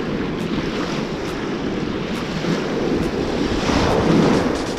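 Ocean surf washing up on the beach, with wind buffeting the microphone; a wave breaks and rushes in louder about four seconds in.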